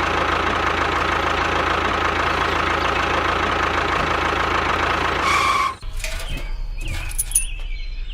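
Tractor engine running steadily, cutting off abruptly about six seconds in. A low hum with a few scattered clicks follows.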